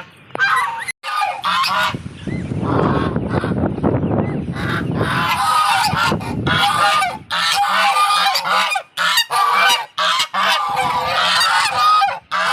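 Domestic geese honking over and over in short calls. A stretch of low rushing noise runs under the calls from about two to six seconds in.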